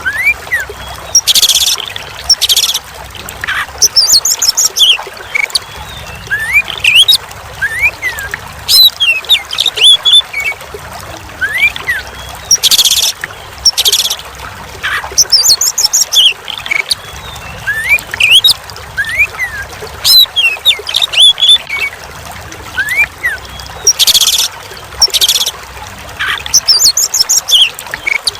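Oriental magpie-robin (kacer) song: varied whistles, quick rising sweeps, trills and harsh rasping notes over a faint trickle of running water. The same sequence repeats about every eleven seconds.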